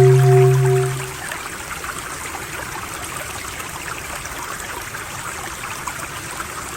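Flowing water running steadily, like a stream or trickle. A pulsing low droning hum fades out about a second in and cuts back in abruptly at the very end.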